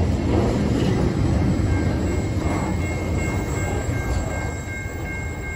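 Tasrail freight train's container wagons rolling past: a steady low rumble of wheels on rail that eases slightly toward the end, with a thin, steady high tone joining about two seconds in.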